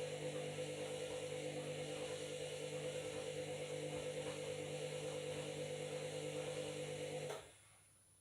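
Washing machine running with a steady motor hum that cuts off suddenly about seven seconds in.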